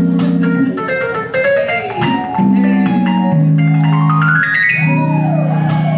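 Keyboard solo with the live band: held low chords under a fast run of notes climbing up the keyboard, then a note that bends up and back down, with drum and cymbal hits throughout.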